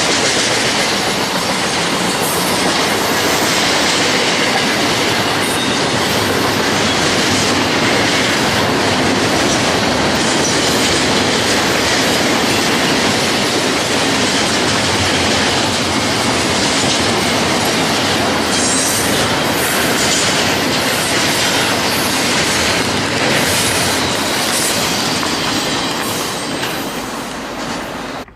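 Freight train rolling past, the steady noise of its wheels on the rails, dying down near the end.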